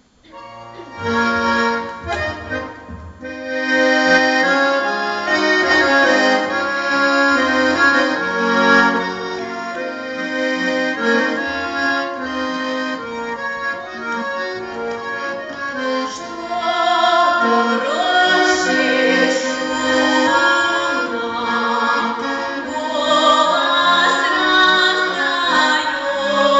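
Accordion playing a tune over held chords, starting about a second in.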